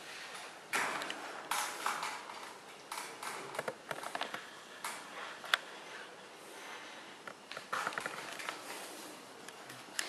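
Bullmastiff puppies moving about, with irregular clicks, taps and scuffles, and one sharp tap about five and a half seconds in.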